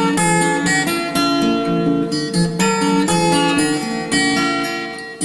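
Background music: strummed and plucked acoustic guitar playing a bright, rhythmic tune.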